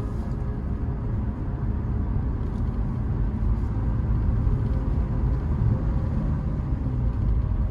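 A vehicle's steady low driving rumble, with no sudden events.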